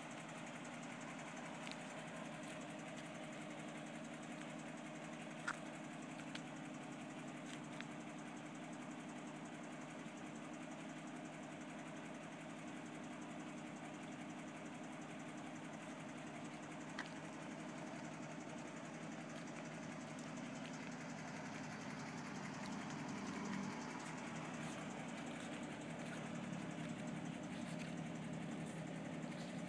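Toyota FJ40 Land Cruiser's inline-six engine idling steadily, with a couple of faint clicks.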